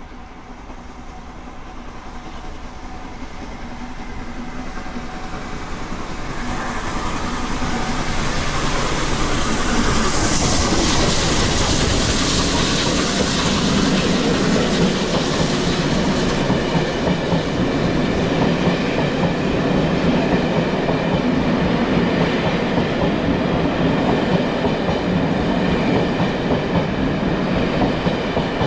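Steam-hauled excursion train approaching and passing, growing louder over the first several seconds, then a long steady run of coaches rolling by with wheels clattering over the rail joints.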